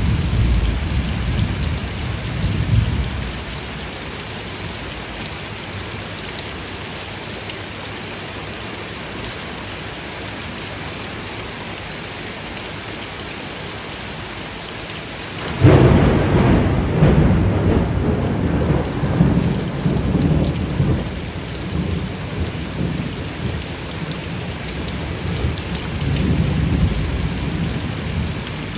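Steady rain falling, with thunder rumbling at the start. About halfway through a sudden, loud thunderclap breaks in and rolls on for several seconds, with more rumbling near the end.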